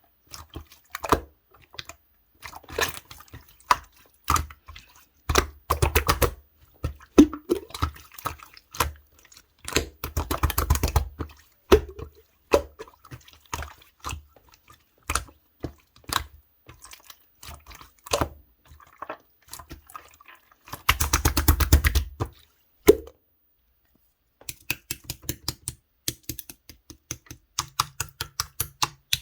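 Clear slime being squeezed and pressed by hand, giving wet crackling clicks and pops, with bursts of rapid crackling about five, ten and twenty-one seconds in.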